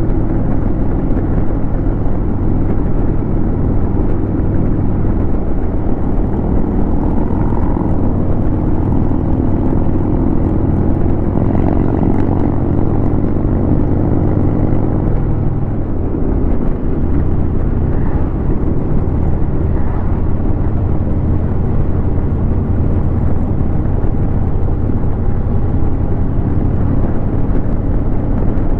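Harley-Davidson Road King's V-twin engine running steadily at road speed, heard from on the motorcycle with wind noise. The engine note dips briefly about halfway through, then settles again.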